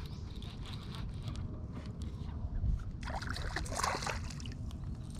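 Water splashing and knocking at the side of a kayak as a hooked bass is brought in, clustered about three to four seconds in, over a steady low rumble of wind on the microphone.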